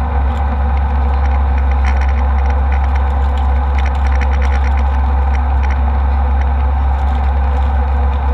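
Steady cabin noise of an Embraer E190 airliner in flight: a constant low rumble of engines and airflow. Faint light clicks sound in the middle.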